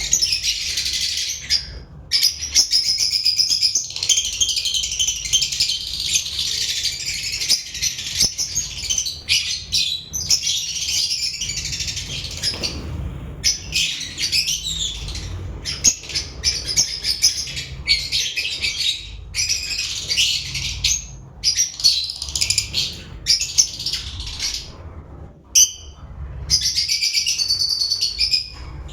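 Lovebirds chattering: a near-continuous stream of rapid, high-pitched chirps and squeaks, broken by a few short pauses.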